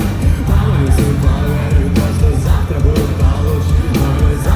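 Live rock band playing: a sung lead vocal over heavy bass and a steady drum beat.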